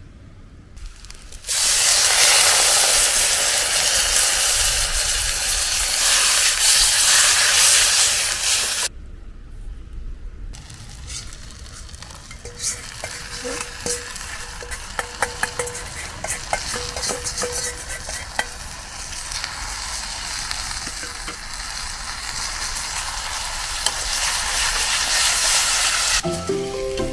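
Food stir-frying in a Chinese wok over a hot campfire: a loud sizzle starts suddenly about a second and a half in and cuts off sharply after about seven seconds, then a quieter sizzle returns with frequent short clicks of the spatula against the wok. Music comes in near the end.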